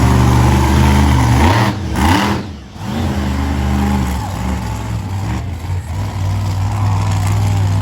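Monster truck engine running with a steady low drone, dropping away briefly about two and a half seconds in and then picking back up.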